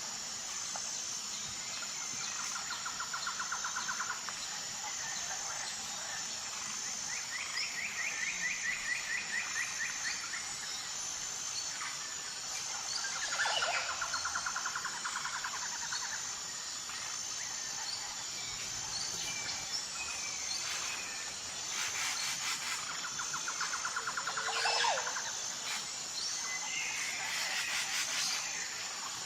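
Wild birds singing: a few rapid trills of quickly repeated notes, each lasting two to three seconds, with some short sweeping calls between. Under them runs a steady, evenly pulsing high-pitched insect chorus.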